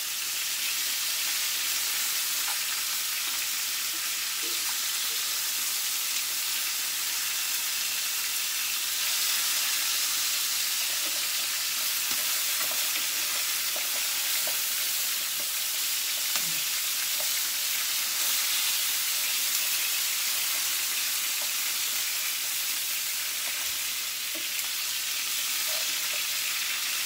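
Chicken pieces sizzling steadily in a hot frying pan as they brown.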